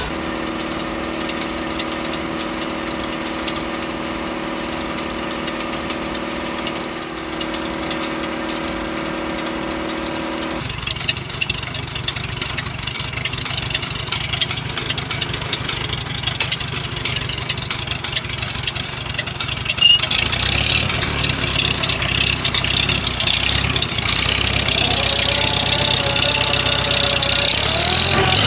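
Farmall H tractor's four-cylinder gasoline engine running, at first a steady even note, then changing suddenly to a lower, rougher rumble about ten seconds in, growing louder with a wavering pitch near the end. It runs a little rough.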